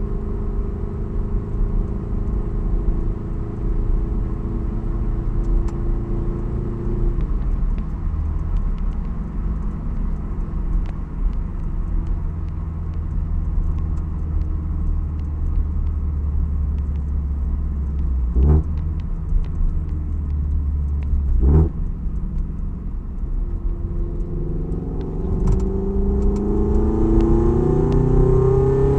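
A Toyota 86's FA20 flat-four boxer engine with unequal-length headers, rumbling as the car is driven. The engine note drops about a quarter of the way in and then holds a low, steady drone, broken twice in the middle by short revs. Near the end the revs climb steadily under acceleration.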